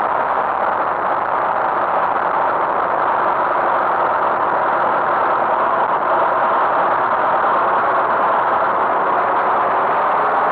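Tractor engine running steadily, an even drone with no change in speed.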